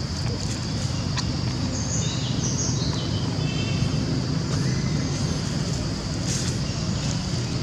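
Outdoor ambience: a steady low rumble under a steady high-pitched hum, with a few short bird chirps about two to three seconds in and some faint clicks.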